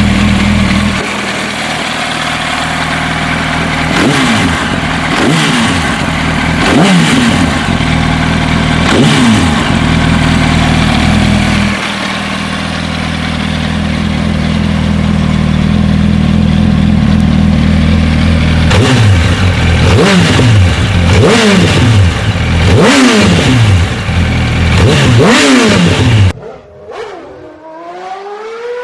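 2007 Yamaha R1's inline-four engine idling loudly through a race exhaust and being blipped: four sharp revs in the first ten seconds, then steady idle, then a run of about six quick throttle blips. About 26 seconds in, the loud engine cuts off suddenly, leaving fainter rising and falling engine tones.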